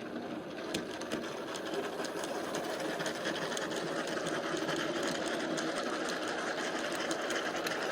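Model train running on an exhibition layout: a small electric motor whirring steadily, with frequent light clicks from the wheels on the track.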